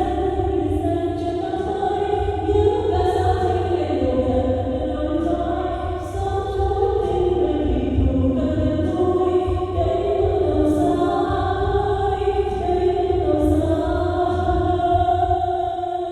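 Choir singing a slow song in long held notes, several voices together, over a steady low rumble.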